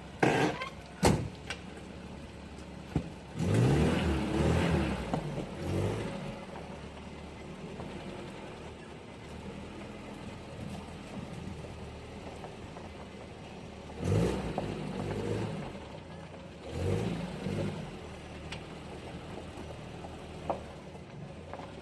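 Peugeot 504 car engine running with a steady idle, blipped up in revs three times, with two sharp clicks near the start.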